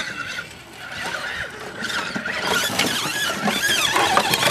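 Small electric motor and gear drive of a radio-controlled rock crawler whining. A steady high whine at first, then pitch rising and falling as the throttle is worked.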